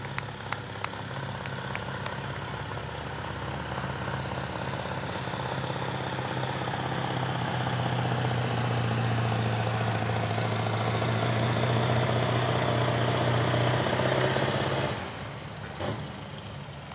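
A semi truck's diesel engine running hard under load as it pulls the sled. It grows steadily louder, then drops away sharply about fifteen seconds in as the pull ends.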